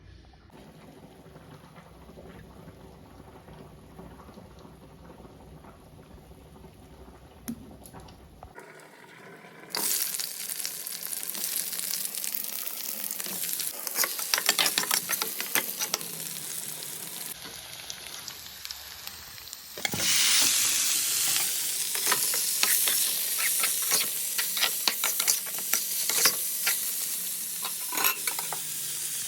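Food frying in hot oil in a pan, sizzling loudly, with a spatula scraping and stirring against the pan in quick strokes. It is fairly quiet for the first several seconds; the sizzle starts about ten seconds in and grows louder again about twenty seconds in.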